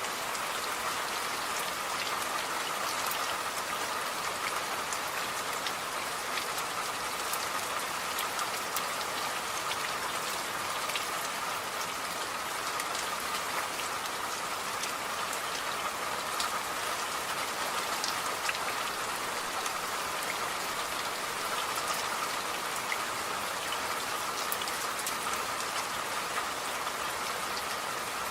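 Steady rain, with many small drops ticking on a surface.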